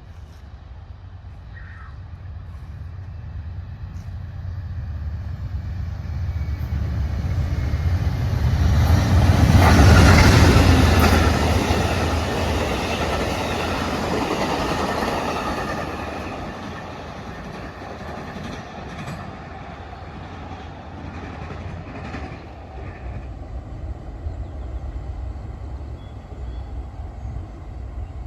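Amtrak passenger train passing, led by a GE P42DC diesel locomotive: the sound builds to a peak about ten seconds in as the locomotive goes by, then drops to a lower, steady rumble as the passenger cars roll past.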